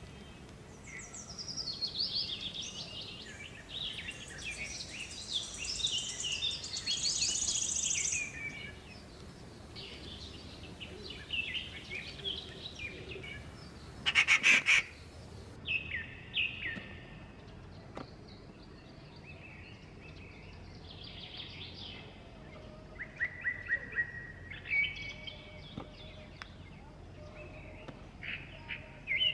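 Several small birds calling and chirping, dense overlapping high calls for the first several seconds, then scattered shorter calls. A brief loud burst stands out about halfway through.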